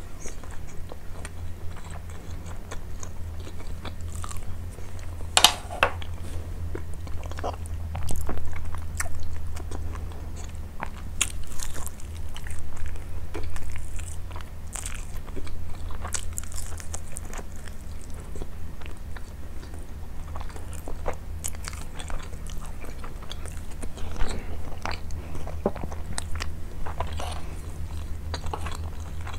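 Close-up eating sounds: chewing spoonfuls of basmati rice with meat and biting into grilled chicken, with many short sharp clicks and crunches, the loudest about five seconds in, over a steady low hum.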